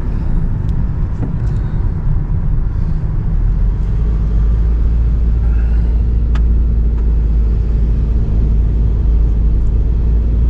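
Steady low rumble of a car's engine and tyres, heard from inside the cabin while driving; it grows heavier about three and a half seconds in.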